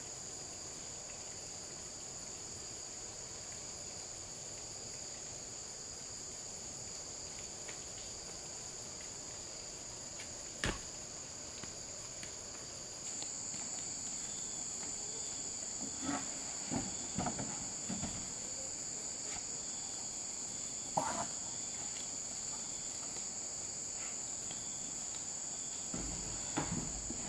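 Steady, high-pitched insect chorus. A sharp knock comes about ten seconds in, a few knocks and scrapes follow, and the loudest knock falls about twenty-one seconds in.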